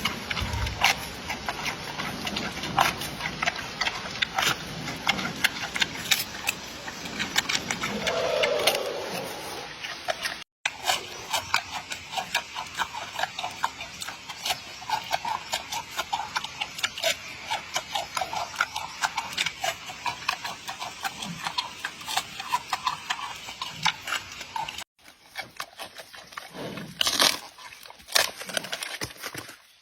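Giant panda chewing and crunching its food, a rapid, irregular run of sharp crunches and snaps. A louder sound breaks in near the end.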